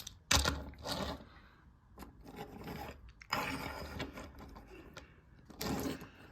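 Handling noise: three spells of scraping and rubbing, as from a toy train or the camera being moved about by hand.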